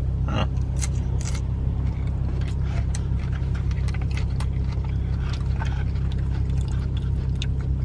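Steady low rumble inside a car, with scattered light clicks and scrapes on top, such as food containers and utensils being handled.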